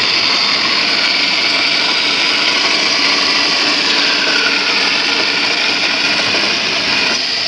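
A power tool running steadily at full speed, a continuous high whirring noise, cut off abruptly at the very end.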